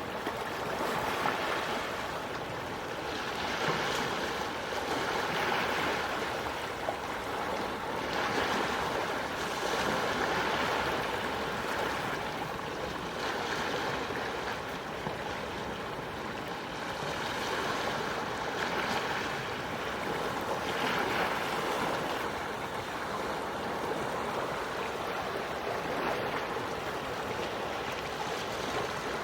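Calm sea waves washing onto the shore: a steady hiss of surf that swells and eases every few seconds.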